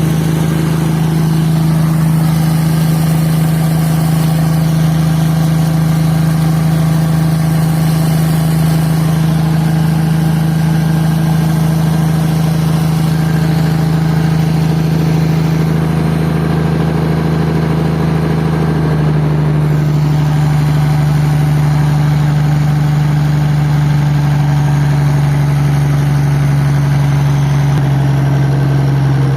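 Diesel engine idling steadily, its note dropping slightly about two-thirds of the way through.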